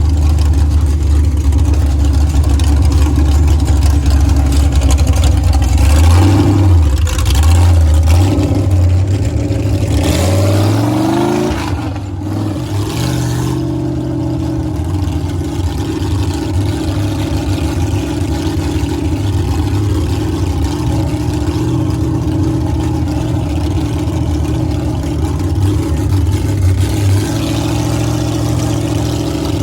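Monster truck engine running under load, with a rising rev about ten seconds in that drops away briefly before settling into steady running.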